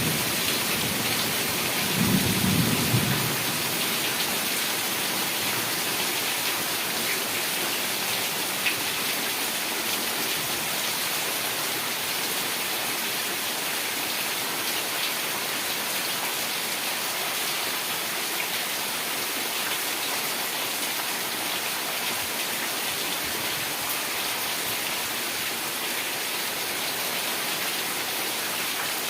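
Heavy rain falling steadily, with a brief low rumble of thunder about two seconds in.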